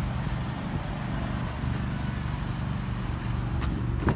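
A vehicle engine idling with a steady low hum, with a couple of sharp clicks near the end.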